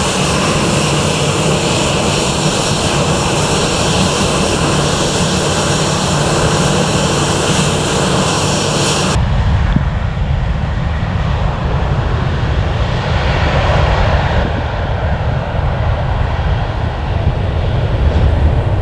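Airliner jet engines at takeoff thrust on departure: a loud engine noise with a high whine. About nine seconds in the whine cuts off abruptly, leaving a heavy, deep rumble.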